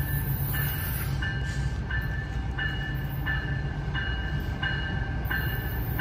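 Amtrak Siemens Charger diesel locomotive rolling slowly into the station with a low, steady rumble. Over it, a bell rings evenly, about once every 0.7 seconds.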